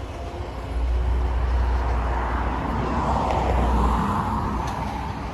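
A road vehicle passing: a low engine rumble and tyre noise that swell to a peak about three to four seconds in, then fade.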